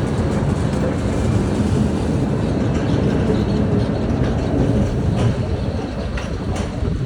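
Steady rumbling road and wind noise from a moving bicycle, with a few faint clicks or rattles in the second half.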